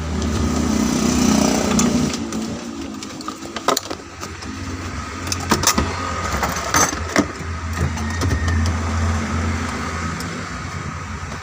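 Daihatsu Gran Max engine idling steadily, being tried out after its oil change, with several sharp metal clinks in the middle.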